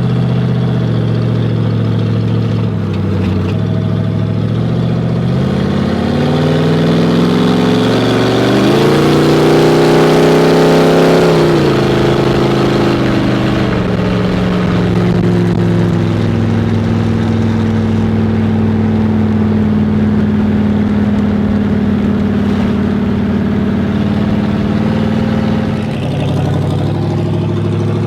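Cadillac engine of a 1930 rat rod running: a steady low note, then rising in pitch for several seconds as it revs or accelerates, peaking about ten seconds in, dropping back and holding a steady speed again.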